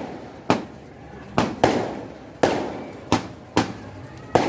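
Fireworks going off: a string of sharp bangs, about seven at irregular intervals, some in quick pairs, each trailing off in an echoing rumble.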